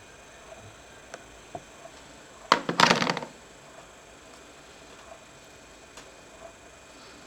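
A few light clicks, then a short clatter of small hard parts lasting under a second, about two and a half seconds in: laptop parts or tools being handled on a work surface.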